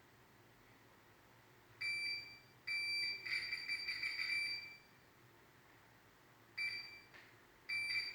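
Electronic beeper sounding a steady high tone in four beeps of uneven length, the second lasting about two seconds.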